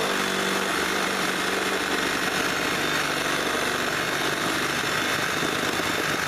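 Reciprocating saw running steadily at full speed, cutting through a wooden landscaping timber.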